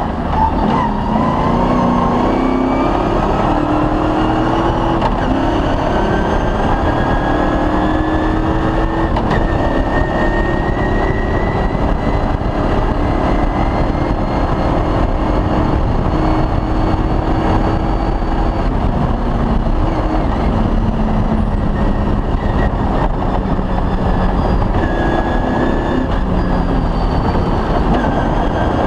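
Cross-country rally car engine running hard over dense rumble and rattle. Its pitch climbs in the first couple of seconds, holds, then drops about 19 seconds in and again near 25 seconds.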